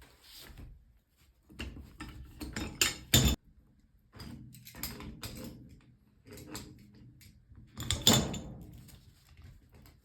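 Hard objects being handled: a run of clinks, knocks and rustles, with the loudest knocks about three seconds in and again about eight seconds in.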